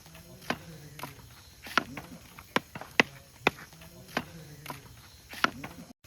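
Sharp, short taps at an uneven pace of about one to two a second, with faint low wavering tones beneath and a brief dropout near the end.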